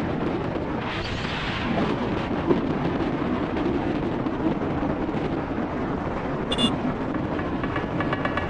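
Wind rushing over the microphone of a moving motorcycle: a steady low rumble, with a brief brighter gust about a second in. A short high-pitched tone sounds about six and a half seconds in.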